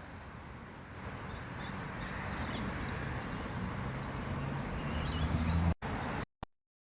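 Outdoor ambience: birds chirping over a steady rushing rumble that swells gradually. Near the end it cuts out abruptly in a couple of sharp dropouts.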